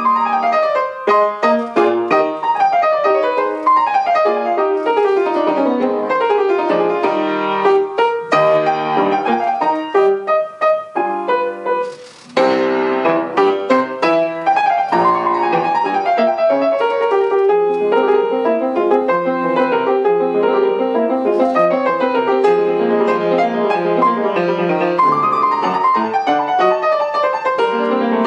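Solo piano playing a classical piece in quick runs of notes, with a brief break about twelve seconds in.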